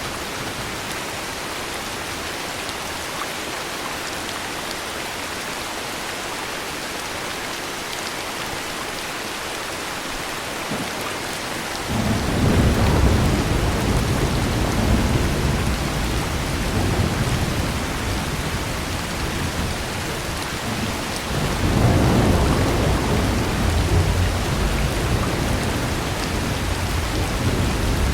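Steady heavy rain with thunder: two long, low rumbles of thunder, the first about twelve seconds in and the second about ten seconds later, each rolling on for several seconds.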